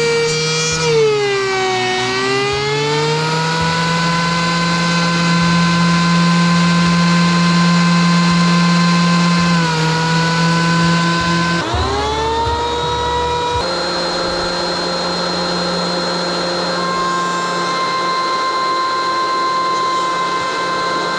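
DeWalt electric planer running with a steady motor whine. About a second in, the pitch sags as a beam loads it, then recovers. Near the middle it drops again and then sweeps back up.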